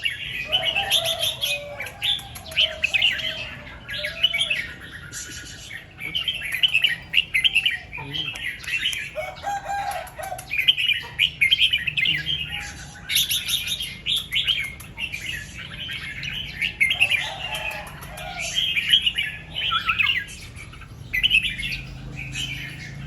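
Red-whiskered bulbul singing, short bubbly phrases repeated one after another with brief gaps, and a lower-pitched phrase now and then underneath.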